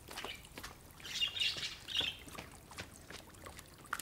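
A few small bird chirps about one to two seconds in, over faint footsteps and light clicks.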